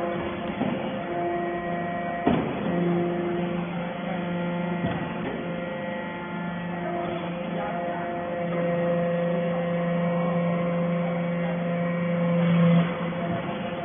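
Hydraulic metal-shaving baler running: the steady electric hum of its motor and hydraulic pump, with a couple of sharp knocks. The hum grows louder partway through and drops off suddenly near the end.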